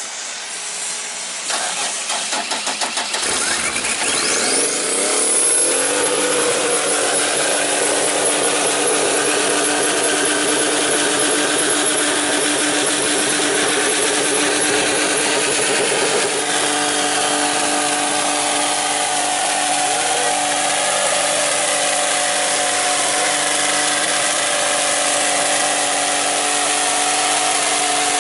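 Chevrolet Camaro V6 engine revving unevenly, then climbing over a few seconds to high revs and held there steadily, run near redline on purpose to blow it after used cooking oil and sugar were put in it.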